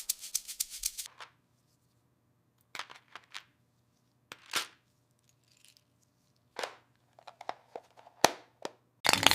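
A series of short, separate scraping and crinkling sounds with quiet gaps between them, as of hands working on small parts. A denser, louder scraping noise starts just before the end.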